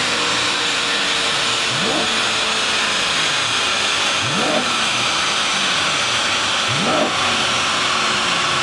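BMW E92 M3's V8 through an Armytrix valved exhaust, revving up sharply three times, about every two and a half seconds, over a steady rushing hiss.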